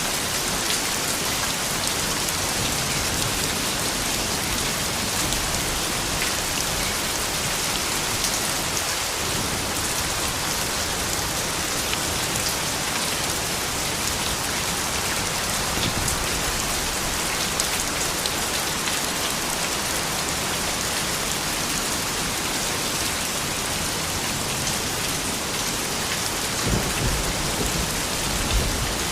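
Steady rain falling: a dense, even hiss flecked with individual drops ticking. A brief low rumble comes near the end.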